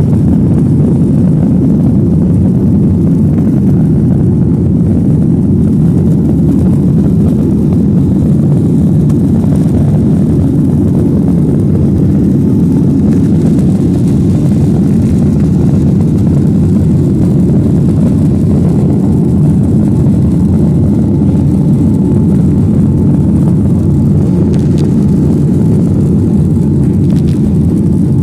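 Steady, loud engine and airflow noise inside the cabin of a Boeing 737-900ER with CFM56-7B turbofans, with no rise or fall in thrust.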